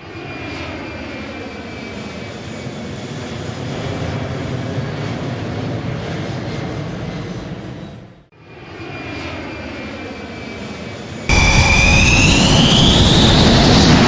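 Jet aircraft engine running steadily. It fades out and back in just after 8 seconds, then turns abruptly much louder at about 11 seconds with a rising whine as the engine spools up.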